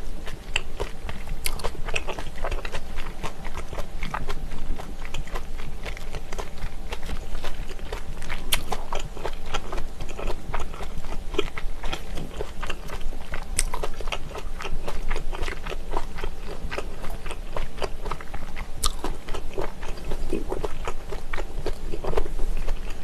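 Close-miked chewing and biting of spicy pressed chicken-feet slices (dakbal pyeonyuk): a dense, continuous run of wet mouth clicks and smacks, with a few sharper clicks standing out.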